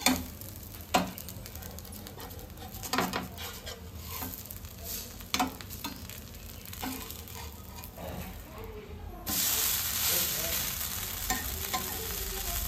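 Dosa batter frying on a flat griddle (tawa), with a metal spatula scraping and tapping the pan about five times. About nine seconds in, the sizzling suddenly gets louder and stays steady.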